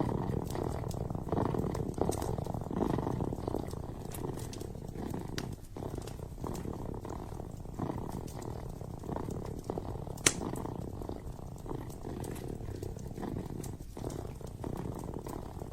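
Kitten purring steadily close to the microphone, a dense pulsing rumble. A wood fire crackles over it with scattered small pops and one sharper snap about ten seconds in.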